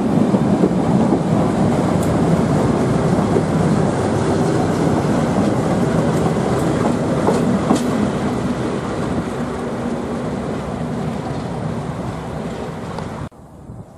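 Diesel-hauled test train passing at speed: wheels clattering over the rails and the English Electric V12 diesel engine of a Class 37 locomotive running as it goes by. The sound slowly fades, then cuts off abruptly near the end.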